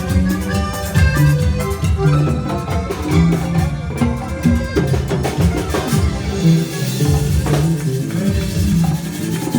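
A live band playing Latin dance music, with a repeating bass line and drums keeping a steady beat.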